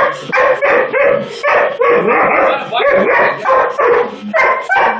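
A dog barking rapidly and repeatedly at a Roomba robot vacuum, about two to three barks a second without a break.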